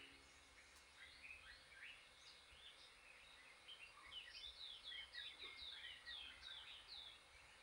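Faint birdsong: scattered chirps, then a quick run of short falling notes, about three a second, in the second half.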